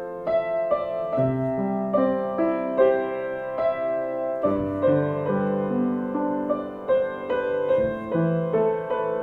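Soft piano music, a gentle melody of notes struck about twice a second over held lower notes.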